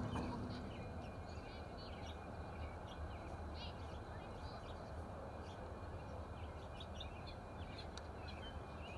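Faint, short bird chirps scattered over a steady low rumble.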